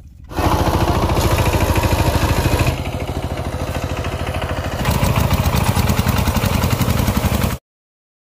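A small engine running close by, a steady fast pulsing that shifts in level twice and cuts off suddenly near the end.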